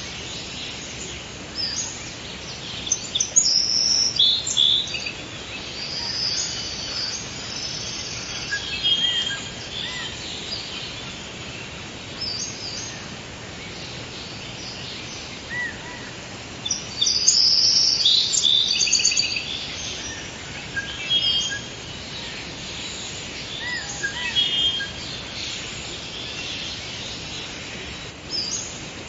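Forest ambience: several songbirds singing and chirping, with short high calls and trills coming and going, busiest near the start and again about two-thirds of the way through, over a steady hiss of background noise.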